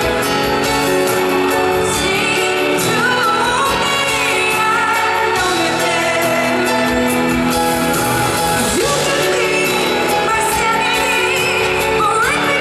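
A female pop singer sings a ballad live over band accompaniment, with sustained notes and sliding vocal runs, carrying the echo of a large arena.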